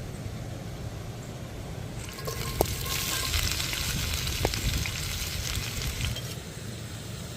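Food sizzling in a hot pan, starting about two seconds in and dying away abruptly near the end, with a couple of sharp clicks, over a steady low rumble.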